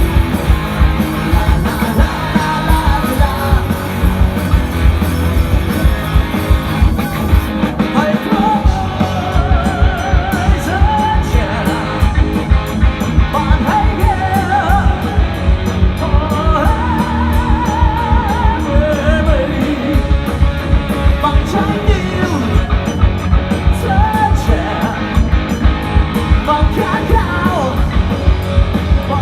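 Rock band playing live: drums, bass and electric guitar over a steady beat, with a wavering lead melody coming in about eight seconds in.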